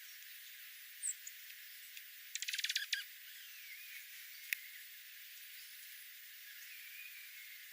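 Small birds calling: a short high chirp about a second in, a fast rattling trill of some fifteen notes about two and a half seconds in, a single sharp click, and faint falling whistles, over a steady hiss.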